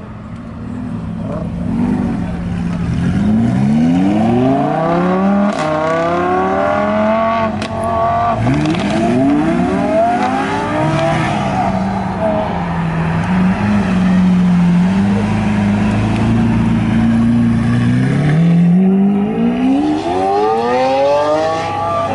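Supercar engines accelerating hard as cars pull away one after another. The revs climb and drop back with gear changes several times in the first ten seconds, hold as a steadier, wavering drone in the middle, and climb again near the end.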